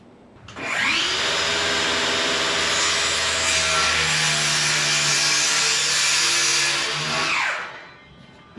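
Electric power saw spinning up, running steadily for about seven seconds, and winding down near the end.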